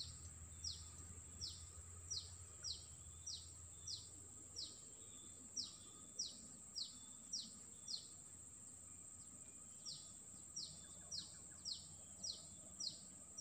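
A bird repeating a short, falling chirp in a quick, even series, about three every two seconds, with a pause of about two seconds past the middle, over a steady high-pitched insect drone.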